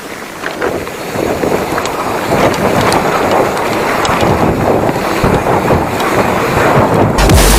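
Wind buffeting the microphone over the rattle and rumble of a mountain bike riding a rough trail, growing louder over the first couple of seconds, with scattered clicks. Electronic music with a heavy bass cuts in near the end.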